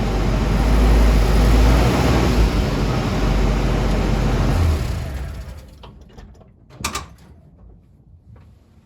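A 1995 Nissan D21 pickup running with a loud, steady low rumble; the truck has a loose driveshaft carrier bearing, the owner's cause of its whirling noise. The rumble dies away about five seconds in, and a single knock follows near seven seconds.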